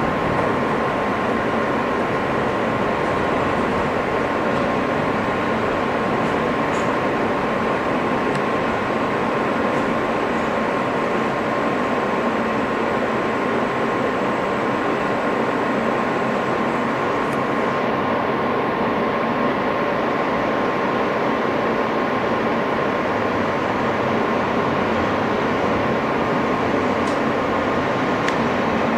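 Inside an R160 subway car running between stations: a steady rumble of wheels on rail, with a constant high tone held throughout.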